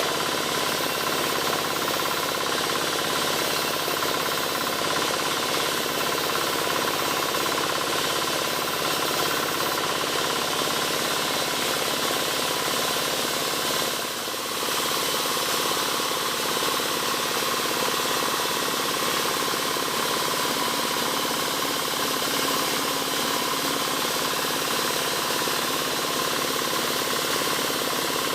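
Motorised wood saw running steadily while sawing albizia (sengon) timber, with a brief dip about halfway through.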